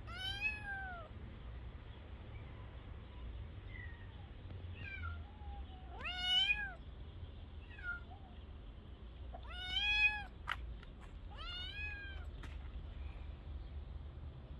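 Kitten meowing repeatedly: four clear meows that rise and fall in pitch, with a few fainter short calls between them and a couple of sharp clicks late on.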